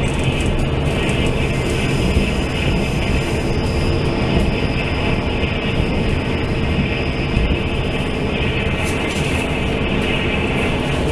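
Steady running noise inside a diesel-hauled Taiwan Railway Fu-Hsing express passenger car at speed: wheels rumbling on the rails and carriage noise. A faint high steady whine sits over it from about one second in until about eight and a half seconds.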